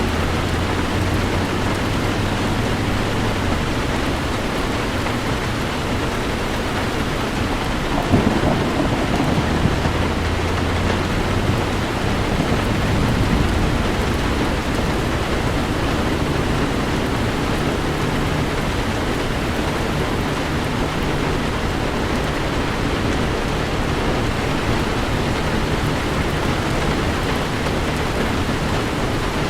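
Heavy rain beating steadily on a car's roof and windshield, heard from inside the cabin over a low, steady hum. About eight seconds in, a rumble of thunder swells for a few seconds.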